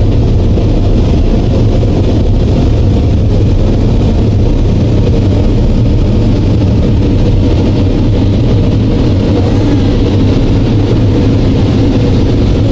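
Automatic car wash machinery running: a loud, steady rumble with a rushing, spraying noise over it.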